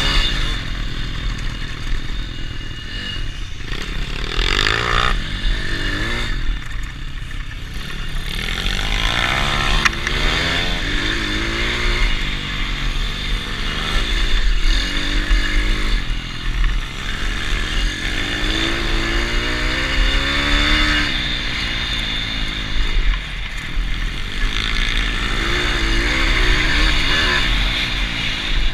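Pit bike engine being ridden hard on a track, revving up and down again and again, its pitch rising and falling throughout.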